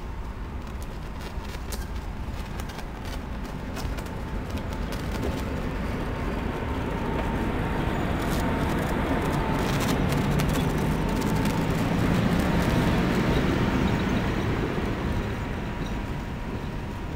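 ET22 electric locomotive with one passenger coach rolling slowly past, its running noise and a faint steady whine growing louder as it draws level and easing off as the coach goes by, with scattered clicks from the wheels on the track.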